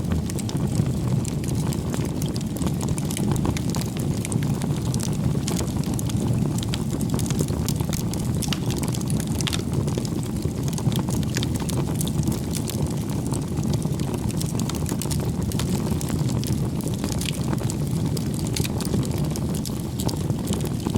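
Wood bonfire burning, with a steady low rumble of flame and frequent sharp crackles and pops of burning wood.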